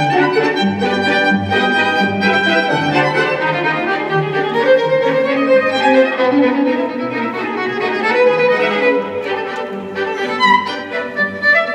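Music played on bowed strings, a violin melody over a lower cello line, in held notes.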